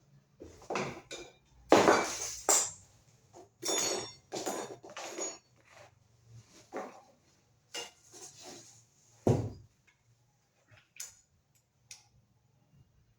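Hard objects being handled, clinking, scraping and knocking together in an irregular series, with the loudest knocks about two seconds in and just after nine seconds, then only a few light ticks.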